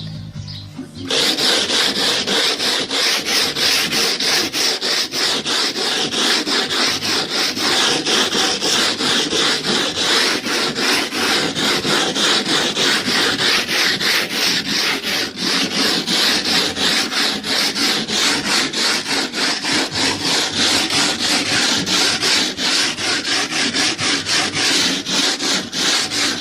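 A hand plastering tool rubbed quickly back and forth over decorative plaster on a wall, making a fast, steady rasping rhythm of strokes. It starts about a second in.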